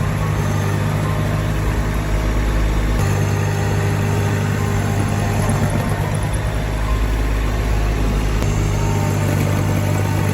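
Tractor engine running steadily with a low drone, the sound changing abruptly about three seconds in and again near the end.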